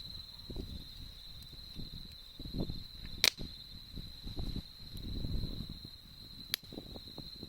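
Wood campfire burning with soft irregular crackling and two sharp pops, about a third of the way in and again near the end. Throughout, an insect trills steadily on one high pitch.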